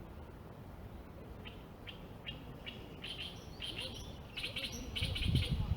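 A small bird chirping: a quick series of short, high notes that start about a second and a half in and grow louder and closer together. A low rumble comes in near the end.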